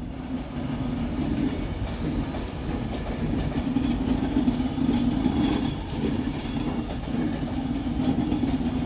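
Class 390 Pendolino electric train pulling out of the platform: a steady low hum and rumble of the moving train, a little louder after the first second, with faint clicks from the wheels.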